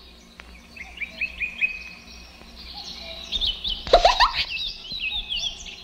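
Birds chirping in a cartoon soundtrack: a run of short, repeated falling chirps, with a brief upward slide in pitch about four seconds in.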